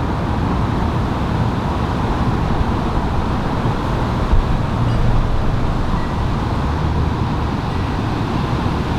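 Steady, loud low rumbling noise that churns without any distinct events.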